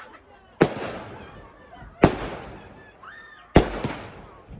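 Fireworks exploding: three loud bangs about a second and a half apart, each followed by a fading, echoing rumble.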